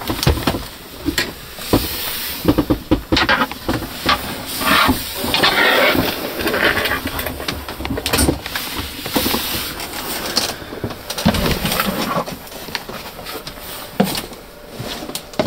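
Irregular knocks, clicks and rustling from someone moving about and handling things inside an aircraft cabin.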